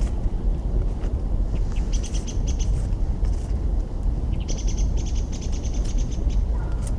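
A small bird singing two fast trills of evenly repeated high notes, the second longer, over a steady low rumble and a few faint crackles from a campfire.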